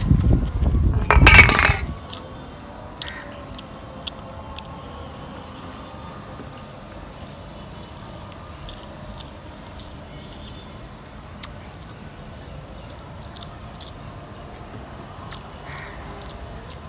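A loud burst of noise in the first two seconds, then faint, scattered small clicks of someone chewing and eating over a steady low background.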